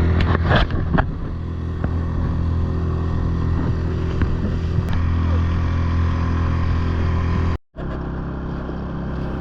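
Engine running steadily at constant speed, a low even hum with overtones and a few clicks in the first second; about three quarters of the way through it cuts off abruptly and a similar steady engine sound follows.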